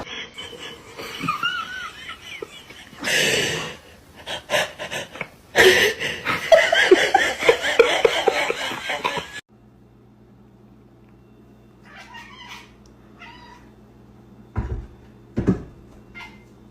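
A cat meowing and yowling again and again over the first half. Then, after a sudden cut about nine and a half seconds in, comes a quieter steady low hum with a few faint short calls and two thumps near the end.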